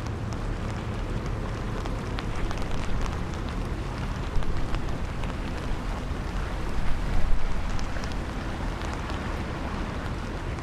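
Strong wind buffeting the microphone as a steady low rumble, with light rain pattering in scattered small ticks. The wind swells louder about four seconds in and again around seven seconds in.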